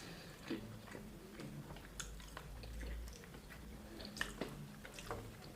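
Faint chewing: a person eating soft food by hand, with scattered small wet mouth clicks.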